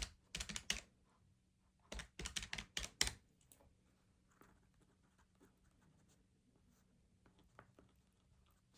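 Rapid key taps in two short runs about a second apart, then only a few faint ticks.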